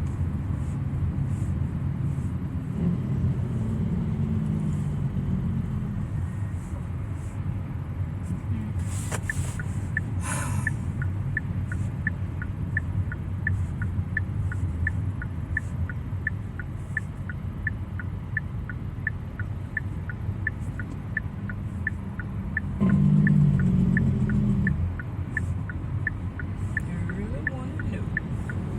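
Steady low rumble of a car's cabin while driving. About a third of the way in, the turn-signal indicator starts ticking evenly at about one and a half clicks a second and keeps going. About three-quarters of the way through there is a brief louder swell in the rumble.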